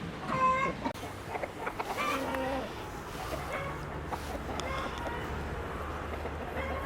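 Chickens clucking and calling in a run of short calls, the loudest one just after the start and another about two seconds in, over a low steady hum.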